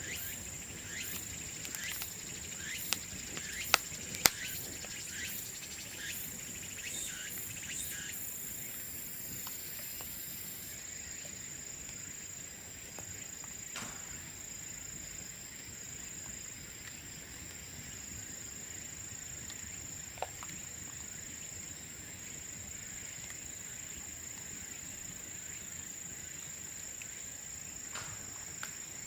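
Bamboo bonfire crackling, with three loud sharp pops about three to four seconds in, then only the odd crackle. A steady high-pitched insect trill carries on underneath.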